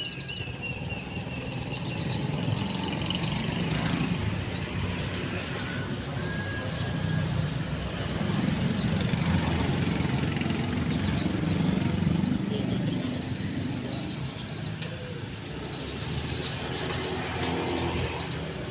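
Many caged sogon (spiderhunter) songbirds singing at once: a dense, continuous high-pitched rapid chatter, over a steady low background rumble.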